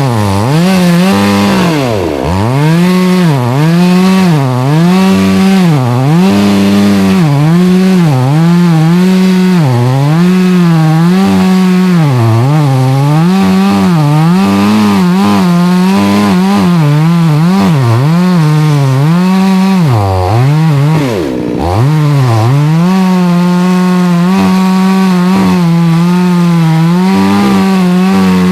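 Chainsaw cutting oak firewood. Its engine pitch repeatedly dips and recovers, about once a second, and sags deeply twice, once early and once about three-quarters of the way in, then holds steady for the last few seconds.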